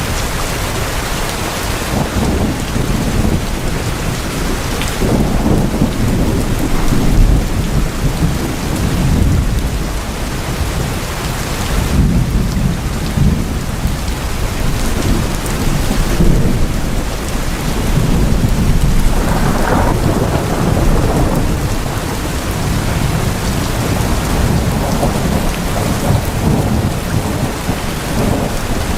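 Steady heavy rain on tin roofs, with several long rolls of thunder rumbling low under the rain.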